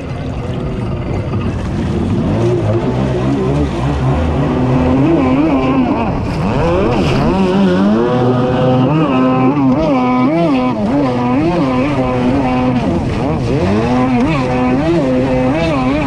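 Two-stroke engine of a stand-up racing jet ski running under throttle, its pitch repeatedly rising and falling as the rider works the throttle on hot laps.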